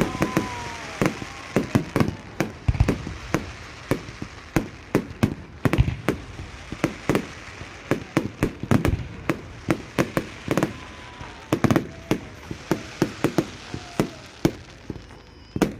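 Fireworks display: a rapid, irregular run of bangs and crackles from shells bursting in the air, several a second.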